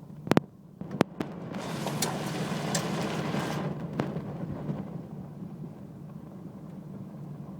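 Gust of wind rushing over the microphone for about two seconds, over a steady low hum, with a few sharp clicks near the start.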